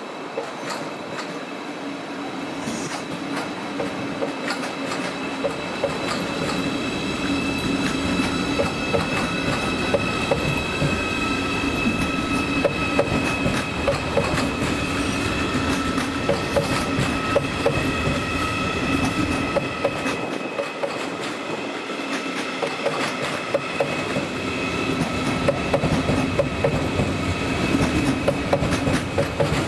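Deutsche Bahn ICE train rolling past, its wheels clacking over rail joints and points in a quick, irregular run. A steady whine and hum run under the clacking, and the sound grows slowly louder.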